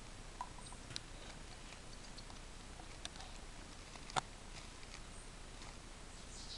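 Faint sounds of young birds in a caged nest: a few sharp clicks over a low hiss, the loudest a little past four seconds in, and a brief high peep right at the end.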